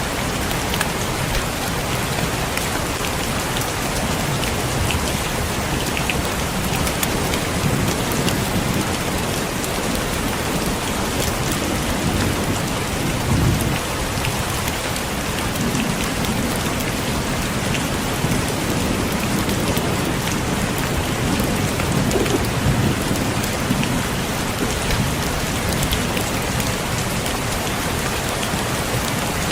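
Heavy rain falling steadily, with low rumbles of thunder swelling now and then.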